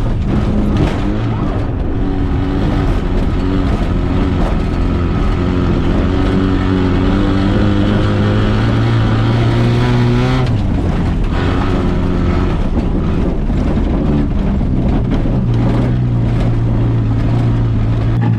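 Rallycross car engine running hard and steadily at high revs, with a brief lift off the throttle about ten seconds in before it pulls again.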